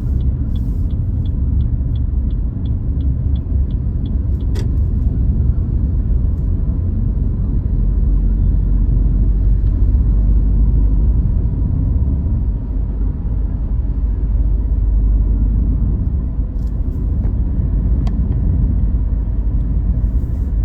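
Car driving in traffic, a steady low engine and road rumble heard from inside the cabin. A run of light, even ticks at about three a second sounds for the first four seconds.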